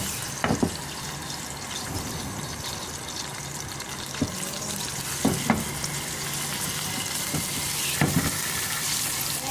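Fish fillet shallow-frying in hot oil in a pan: a steady sizzling hiss, with a few sharp knocks scattered through.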